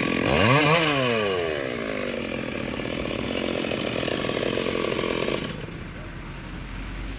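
Stihl MS 382 two-stroke chainsaw revved once, its pitch rising fast and then falling back. It then runs on until the sound drops off sharply about five and a half seconds in.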